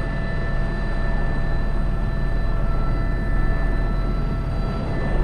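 Airbus H125 helicopter in climbing flight, heard from on board: a steady low rotor and engine rumble under a turbine whine made of several steady high tones.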